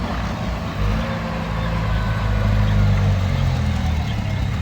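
Heavy diesel machine engine running under load, its note growing louder and shifting in pitch partway through as it is throttled up.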